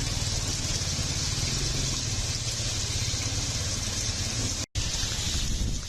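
Heavy rain hissing steadily over a low rumble, with a brief cut to silence near the end.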